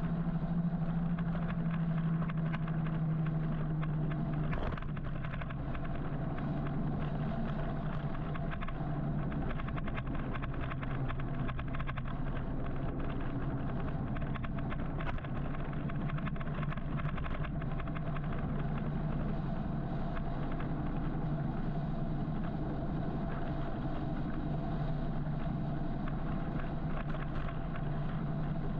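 Steady traffic and riding noise from an electric motorcycle moving through city traffic. A continuous low hum runs under it and shifts briefly about four and a half seconds in.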